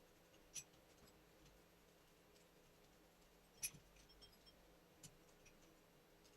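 Near silence with a few faint clicks and taps from hand work on a disassembled car alternator, the loudest about three and a half seconds in.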